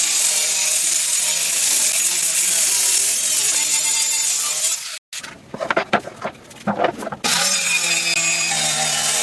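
Power tool working wood: a steady high hiss over a low hum. About five seconds in it cuts off abruptly, giving way to a couple of seconds of scattered knocks and scrapes, then the tool sound resumes.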